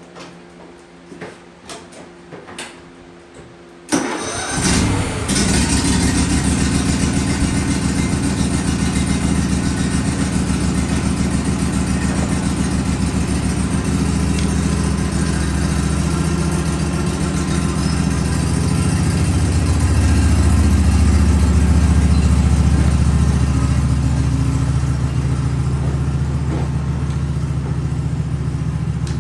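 Riding lawn mower engine starting suddenly about four seconds in, after a few faint clicks, then running steadily. It gets louder for a few seconds past the middle.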